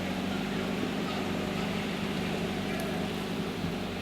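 GAZ-66 truck's diesel engine running steadily, its low hum holding an even pitch.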